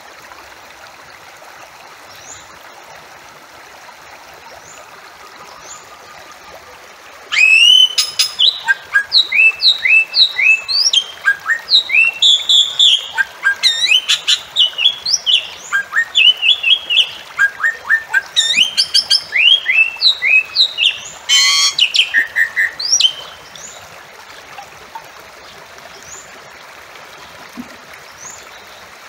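Bali myna calling: a loud run of quick, rising whistled notes, starting about a quarter of the way in and lasting about sixteen seconds, with one harsh note near the end of the run. Faint rising chirps come before and after the run.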